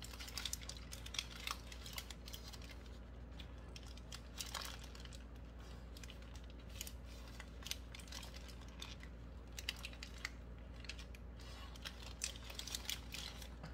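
Close-up chewing of a burger: many small, irregular wet mouth clicks and smacks, with some crinkling of the paper wrapper held around it, over a steady low hum.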